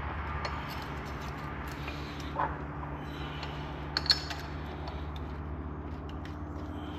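Light metallic clinks of hand tools on bolts, twice standing out about two and a half and four seconds in, over a steady low hum.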